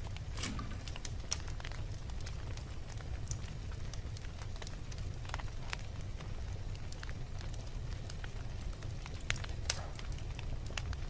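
Wood fire burning in a fireplace: a steady low rumble with irregular sharp crackles and pops, a few louder pops among them.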